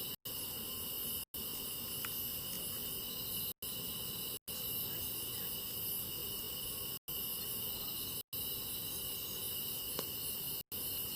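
Steady chorus of crickets and other insects chirring, with a couple of faint clicks; the sound cuts out to silence for an instant about seven times.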